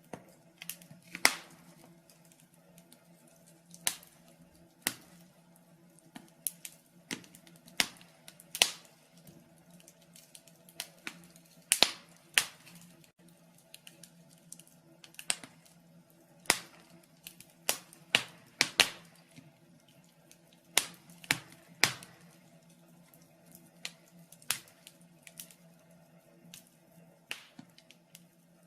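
Wood fire crackling in a fireplace: irregular sharp pops and snaps, roughly one or two a second and uneven in loudness, over a faint steady low hum.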